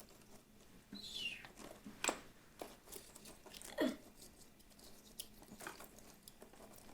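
Toy pieces being handled and set down by hand: a few faint light clicks and taps, with short scraping sounds.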